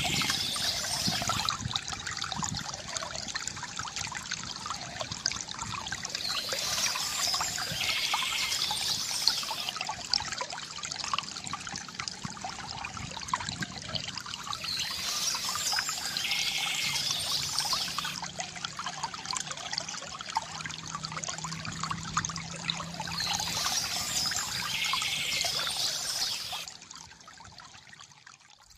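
Water trickling and pouring steadily from a bamboo fountain, with a brighter splashing burst returning about every eight seconds. The sound drops away sharply near the end.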